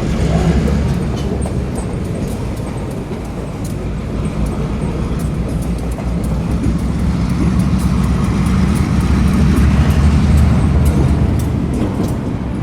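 A train running past at a road crossing, a steady low rumble that swells about eight to eleven seconds in, with many small clicks over it. No crossing bell is heard: the crossing's warning signals are not working.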